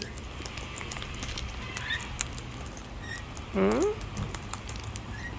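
Scattered small sharp clicks and taps from wild cockatoos and lorikeets feeding on seed close by, with one short pitched call about three and a half seconds in.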